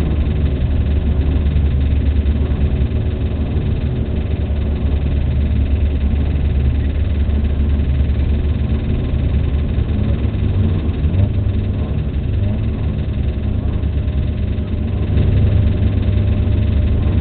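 Car engine idling, heard from inside the cabin: a steady low drone, slightly louder near the end.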